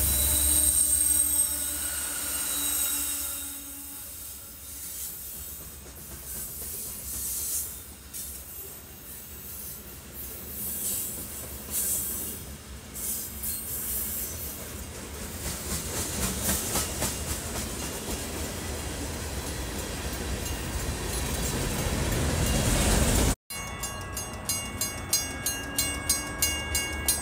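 Freight train passing close by: a Kansas City Southern diesel locomotive in the middle of the train goes by first, loudest in the opening seconds, then hopper and tank cars roll past with a steady rumble and high wheel squeal. Near the end it cuts to a bell ringing rapidly, about twice a second.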